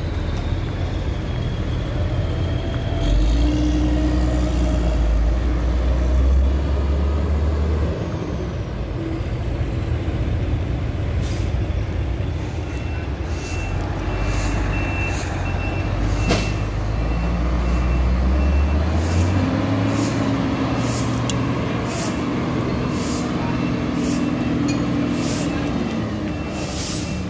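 Sany concrete mixer truck's diesel engine running under load, its low drone heaviest for much of the first two-thirds and then easing off. In the second half a reversing alarm beeps steadily, along with repeated short hisses.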